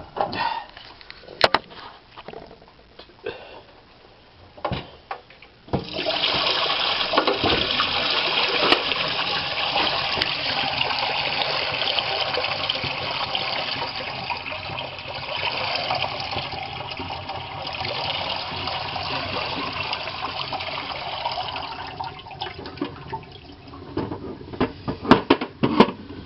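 A few handling clicks and knocks, then water from a dehumidifier's full collection bucket being poured out in a steady splashing rush for about sixteen seconds, tapering off. Plastic clatter follows near the end.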